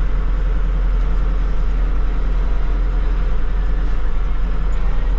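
Kubota MX6000 tractor's diesel engine running steadily as the tractor drives forward.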